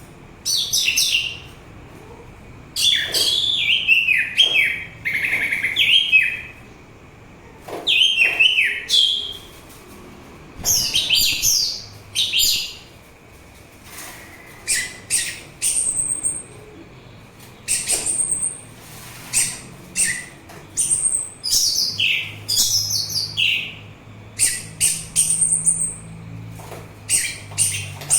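Orange-headed thrush singing: quick, varied phrases of sweeping and whistled notes, delivered in short bursts with brief pauses between them.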